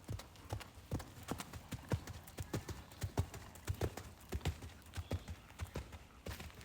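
A warmblood horse's hooves striking the ground in a quick, uneven series of clip-clops, several beats a second.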